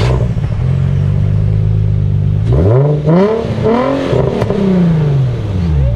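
Nissan 350Z's VQ-series V6 idling steadily, then blipped a couple of times about halfway through, the engine note rising and falling back to idle.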